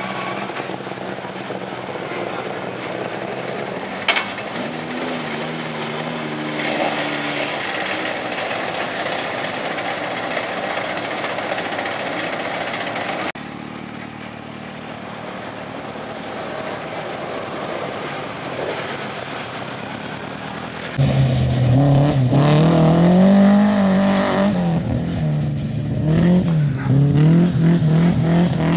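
Ford Mk2 Escort rally car's engine running hard on a stage, its revs rising and falling. About two-thirds of the way through it becomes much louder and closer, the engine note swinging up and down.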